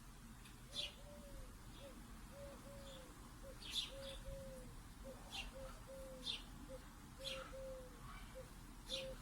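A dove cooing faintly in a steady run of short and long notes, with small birds giving high chirps about once a second.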